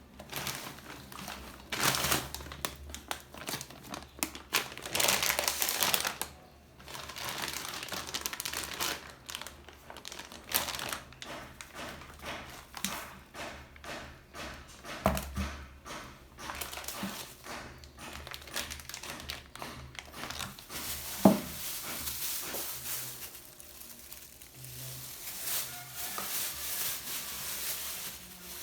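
Repeated crinkling and rustling of something crinkly being handled, with a few light knocks and one sharper knock about two-thirds of the way through.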